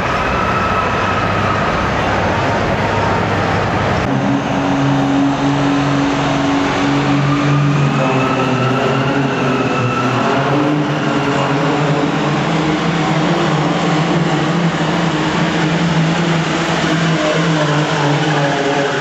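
Diesel pulling truck's engine running loud and steady, its pitch stepping up slightly about four seconds in, with a higher whine rising and falling above it.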